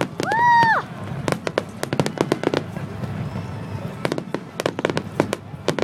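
Aerial fireworks going off: a quick, irregular series of sharp bangs and pops. Near the start a short, loud pitched tone rises, holds and drops away.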